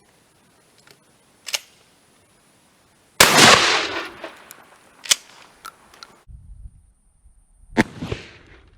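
A 12-gauge shotgun fires a 1 oz rifled slug about three seconds in, a single very loud report that dies away over about a second. Sharp clicks come before and after it, and a second, quieter bang follows near the end.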